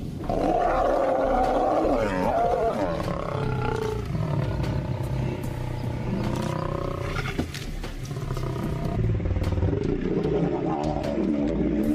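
Lions snarling and growling in a fight: harsh, wavering calls that go on almost without a break.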